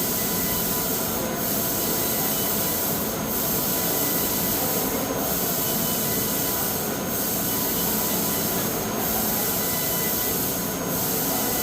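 CNC laser cutting machine running: a steady loud hiss with a few faint steady tones. The hiss briefly drops about every two seconds.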